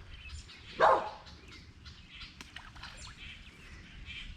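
A dog barks once, a short sharp bark about a second in, followed by faint bird chirping.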